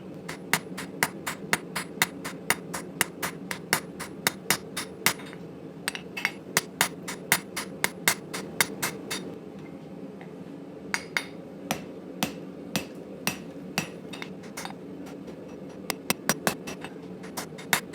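Hammer blows on hot 80CrV2 steel while forging a blade, sharp ringing strikes coming quickly at about three a second, with a brief pause about ten seconds in. A steady low hum runs beneath.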